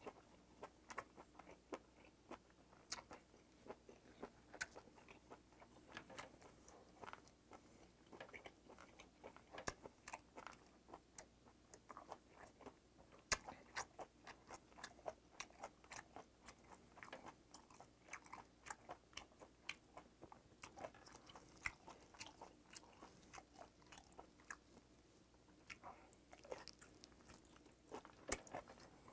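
A person chewing a mouthful of boiled octopus tentacle close to the microphone: many small, irregular wet mouth clicks and smacks.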